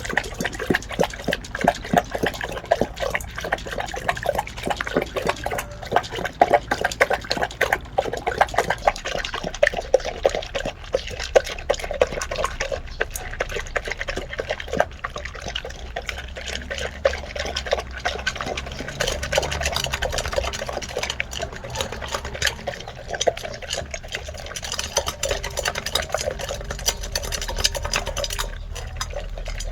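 Labrador retriever lapping from a bowl of water, with quick, repeated wet laps and slurps several times a second.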